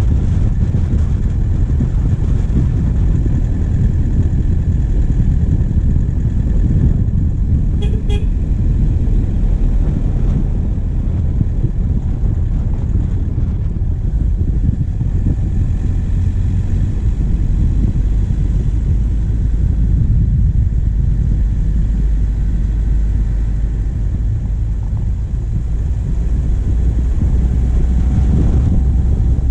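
Diesel engine of a vehicle driving steadily along a forest track, picked up by a bonnet-mounted camera, with a deep, even drone. A brief tooting tone sounds about eight seconds in.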